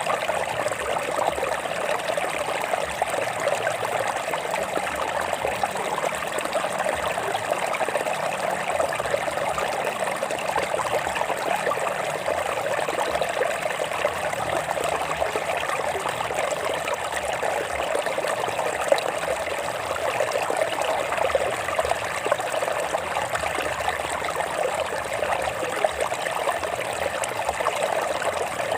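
A stream flowing and trickling over rocks: a steady, unbroken rush of water with no pauses.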